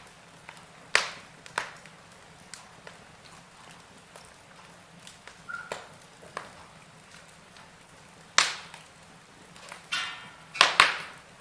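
Wood fire in a fireplace crackling, with sharp pops about a second in, at about eight seconds and twice in quick succession near the end, and smaller snaps between.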